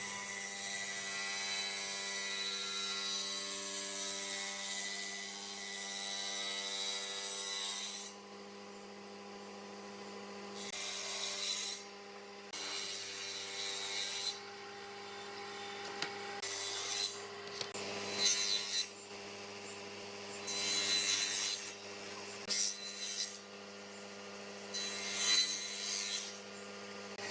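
Wood being sanded or rasped with a power tool over a steady motor hum: it works the wood continuously for about eight seconds, then in short strokes of a second or so.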